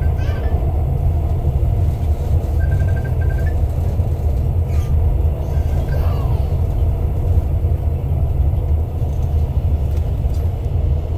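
Steady low rumble of a passenger train running along the track, heard from inside the carriage. Faint short high beeps come briefly at the start, about three seconds in, and about six seconds in.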